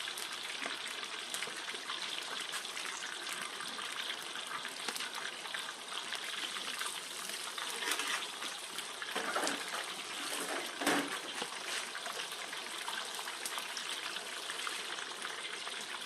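Chicken deep-frying in a pot of hot oil: a steady sizzle with small crackles, a little louder for a few seconds in the middle.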